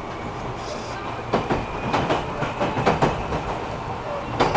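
Inside a JR 205 series electric commuter train running between stations: a steady rumble, with the wheels clacking over rail joints in close pairs from about a second in.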